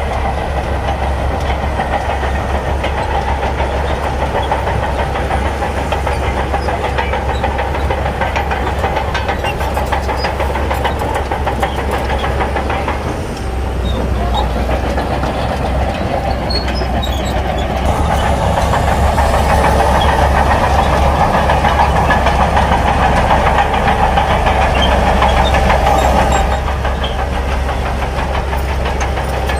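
Shantui crawler bulldozer's diesel engine running hard with a steady rumble and a rattle of its tracks. The engine grows louder from about 18 to 26 seconds in, then eases back.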